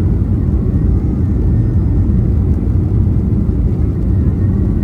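Steady low rumble of a Boeing 737-800's CFM56 engines and airflow, heard inside the cabin from a window seat.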